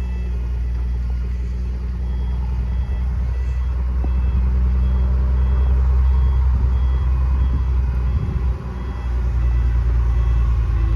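Railway locomotive engine running steadily and growing louder as the train approaches, with faint repeated beeps of the level crossing's warning alarm above it.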